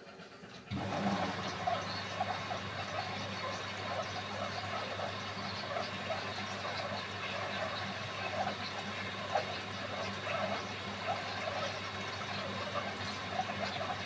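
Beko WMY81283LMB2 washing machine starting to take in water: about a second in, the inlet valve opens with a hum and water starts rushing and splashing into the drum, and it keeps running steadily.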